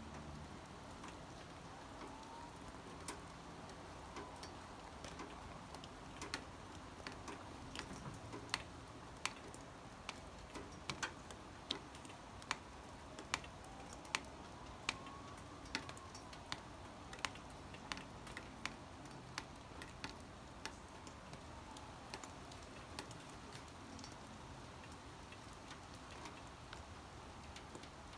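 Rain: a steady faint hiss with irregular sharp ticks of single raindrops striking a hard surface, coming a couple of times a second at their busiest in the middle and thinning out towards the end.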